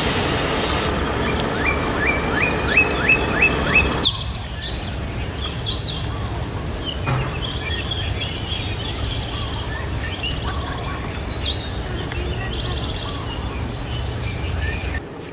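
Birds chirping over a steady high insect drone and a low rumble, with a quick run of about seven rising chirps in the first few seconds; the background noise drops abruptly about four seconds in.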